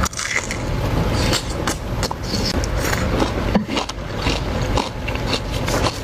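Close-miked chewing of food, with repeated crisp crunches over a low rumble.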